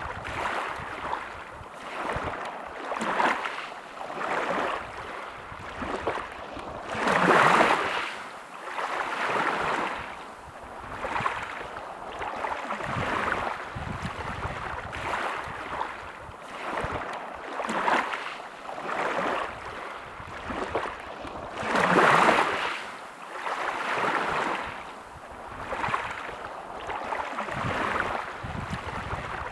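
Sea waves washing onto a beach: a rushing hiss that swells and fades every couple of seconds, with two bigger waves breaking about seven and twenty-two seconds in.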